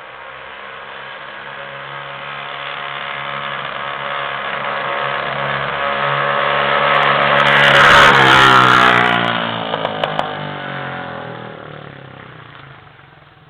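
A 50cc dirt bike's small engine, running without a muffler, passes by at speed. It grows louder as it approaches, peaks about eight seconds in with its pitch dropping as it goes by, then fades into the distance.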